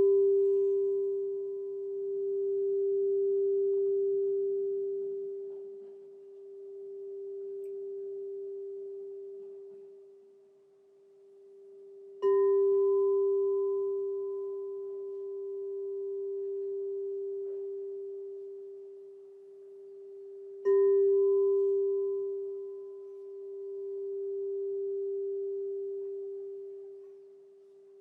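Crystal singing bowl struck and left ringing: one steady low tone with a fainter higher overtone, its loudness swelling and fading in slow waves. It is struck again about twelve seconds in and again about twenty-one seconds in.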